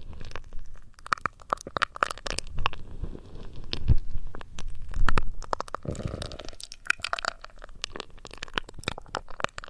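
Close-miked ASMR trigger sounds: dense crackling and crinkling rubs against the microphone, with low muffled thumps about four seconds in and again around five to six seconds.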